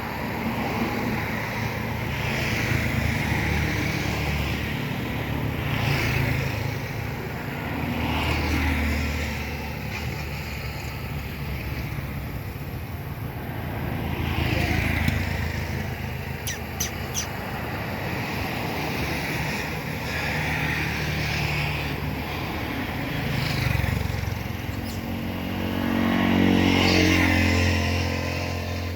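Motor vehicles running past in a steady traffic rumble, with swells every few seconds. Near the end a louder engine passes close.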